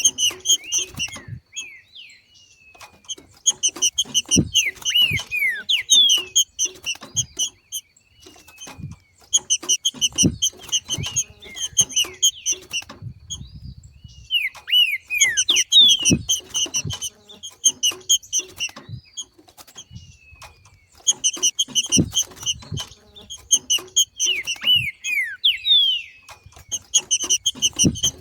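Green-winged saltator (trinca-ferro) giving its 'macheado' call: phrases of several seconds of rapid chattering notes mixed with falling whistled slurs, separated by short pauses. Short low knocks sound underneath.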